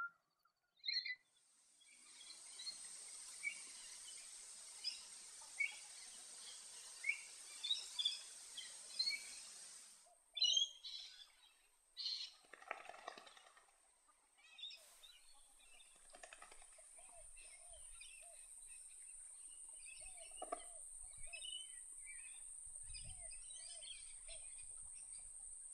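Wild birds calling, with many short chirps over a steady high-pitched hiss. In the second half a run of short, evenly repeated lower calls joins in.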